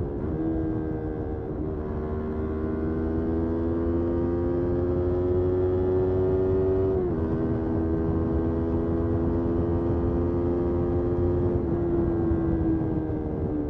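Motorcycle engine pulling under way. Its pitch climbs slowly for several seconds, drops sharply at a gear change about seven seconds in, climbs again, then falls away as the throttle closes near the end.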